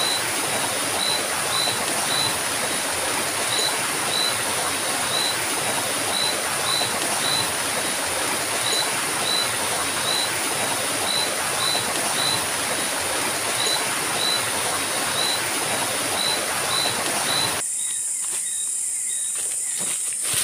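Steady rush of river rapids, with a high chirp repeating about twice a second over it. Near the end the rushing water cuts away suddenly, leaving a high hiss, the chirps and a few light clicks.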